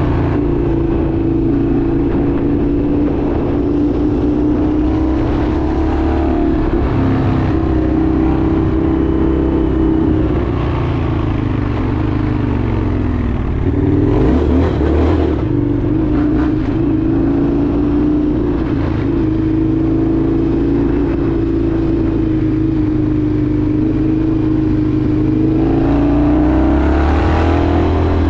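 Indian FTR 1200's V-twin engine running under way, its pitch drifting with the throttle: it drops off for a few seconds around the middle, then climbs as it accelerates near the end.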